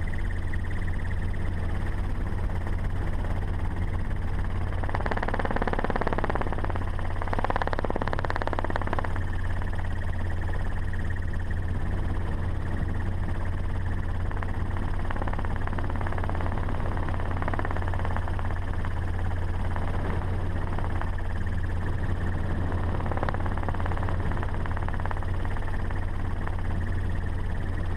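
Ford Raptor pickup truck driving fast on a dirt road: a steady low engine drone with rushing road and wind noise. A couple of brief louder swells come about five to nine seconds in.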